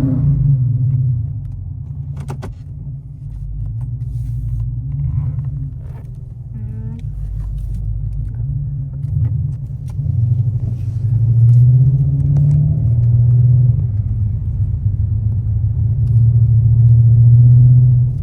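Dodge Charger Super Bee's 392 HEMI V8 running as the car is driven, a steady low exhaust drone that swells louder about eleven seconds in and again near the end.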